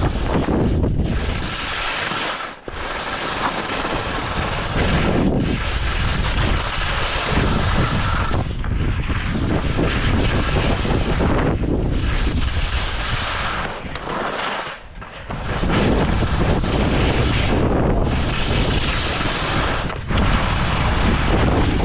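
Strong wind buffeting the microphone in uneven gusts, with short lulls about two and a half seconds in and again around fifteen seconds in.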